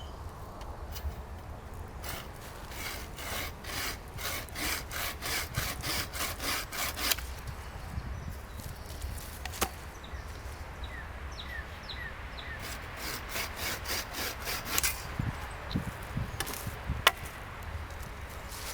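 Hand saw cutting through dry wood in quick, even strokes, about three a second, in two bouts: a longer run in the first part and a shorter one past the middle.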